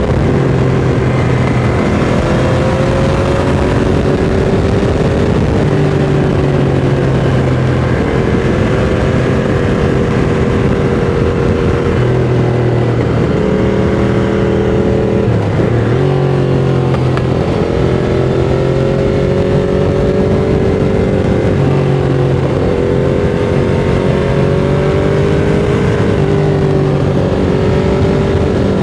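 Ducati Monster 695's air-cooled L-twin running through a Mivv X-Cone aftermarket exhaust at a steady cruise, with a haze of wind and road noise. About halfway through the engine note dips briefly and climbs again.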